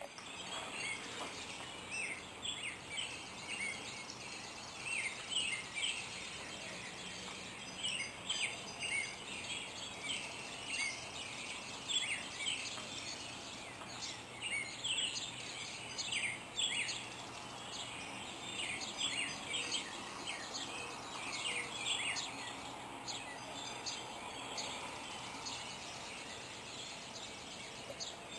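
A morning chorus of songbirds: many short chirps and song phrases from several birds overlapping, over a steady background hiss.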